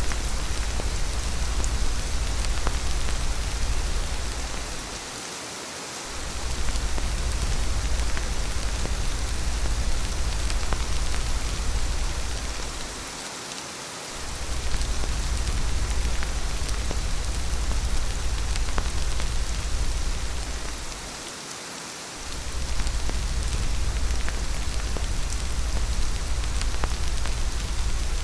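Steady heavy rain falling, with scattered drop ticks, over a deep low rumble that cuts out briefly about every eight seconds, three times.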